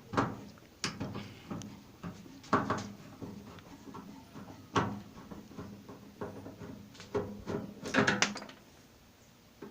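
Hand tools and metal parts of a microwave oven knocking and clicking as screws are taken out during disassembly: a string of separate knocks, with a quick run of several clicks near the end.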